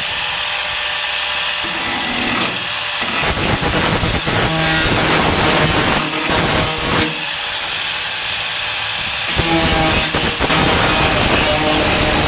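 A 4.5-inch angle grinder runs on the truck bed's sheet steel with a steady high whine. Twice, at about three seconds in and again near ten seconds, it bites into the metal and the sound turns into a harsher, fuller grinding.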